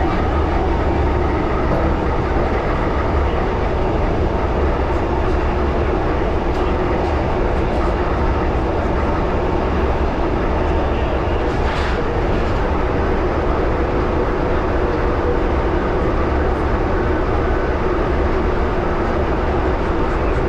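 London Underground 1938 Tube Stock train running steadily, a continuous rumble of wheels and motors on the track. There is one brief hiss about twelve seconds in.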